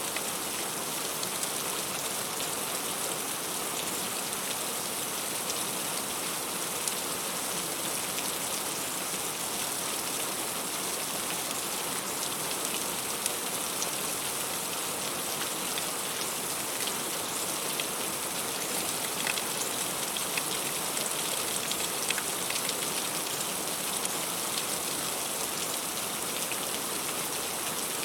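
Heavy rain falling steadily, an even hiss with scattered faint ticks of single drops.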